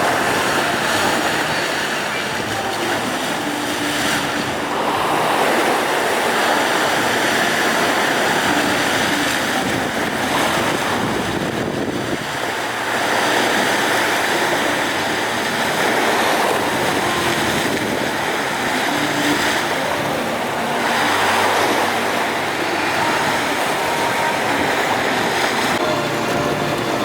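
Strong wind buffeting the microphone over rough sea and waves: a loud, continuous rush that swells and eases every few seconds.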